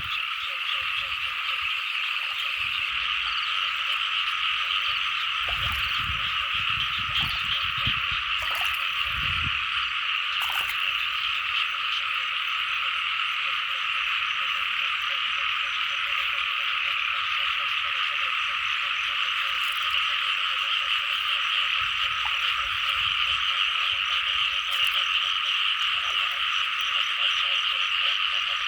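A dense chorus of many frogs calling steadily without a break, with a few low thumps between about five and ten seconds in.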